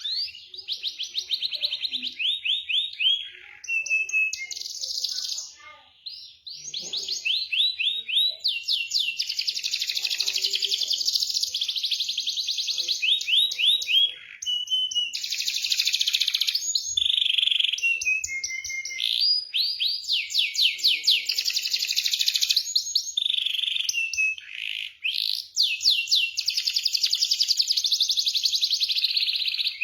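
Domestic canary singing a long song of fast rolling trills and chirped phrases, high-pitched and nearly continuous with a few short breaks.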